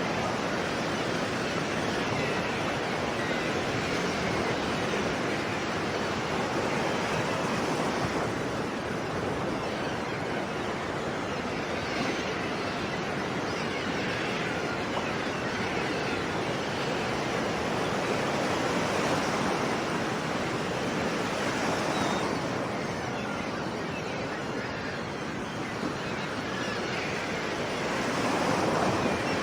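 Sea waves breaking and washing on a shore as a continuous rushing noise, swelling a little with each wave, most strongly near the end.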